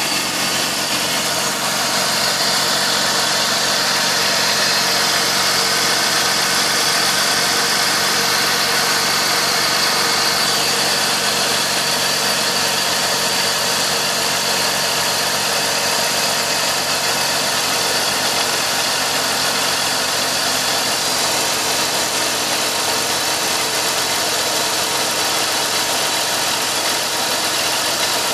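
BMW M54B25 2.5-litre straight-six idling steadily shortly after a near-cold start.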